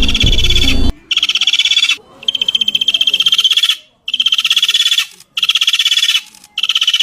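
An animal calling in a rapid, high-pitched pulsed trill, repeated in five bursts of about a second each with short gaps between them. Music is heard under it at the start and cuts off about a second in.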